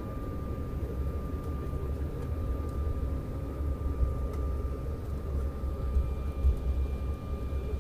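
Cabin noise inside an Embraer 190 jet airliner: a steady low rumble from the engines and airframe, with a thin steady whine over it. A higher whine joins about six seconds in.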